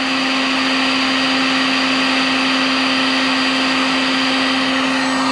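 Harbor Freight heat gun running steadily, its fan motor humming at one constant pitch over the rush of hot air, as it melts plastic for a weld patch on the boat's hull.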